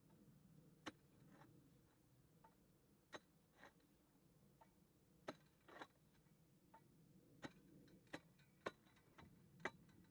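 Near silence, broken by faint, irregular sharp clicks and knocks, roughly one a second.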